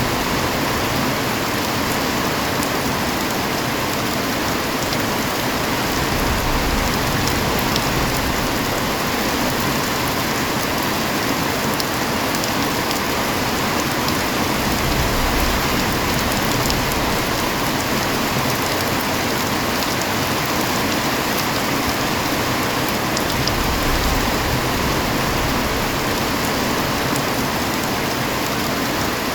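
Heavy rain falling steadily: a dense, even hiss with scattered ticks of single drops.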